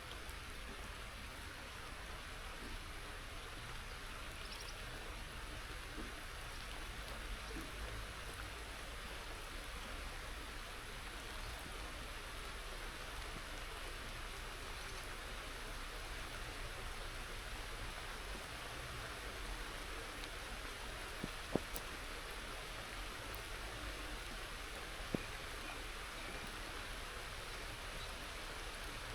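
Steady rain falling, an even hiss with a low rumble underneath, broken by a couple of small sharp clicks in the second half.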